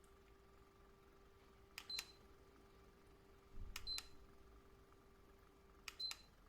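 Buttons on an aroma diffuser or its remote pressed three times, about two seconds apart. Each press gives a pair of clicks and a short high beep. A faint steady hum stops at the third press.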